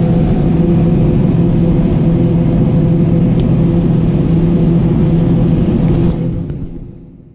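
John Deere 9570 combine running steadily at harvest, a loud constant hum of engine and machinery, fading out near the end.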